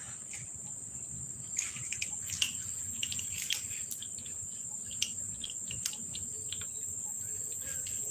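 Steady high-pitched insect chirring with scattered faint clicks and taps.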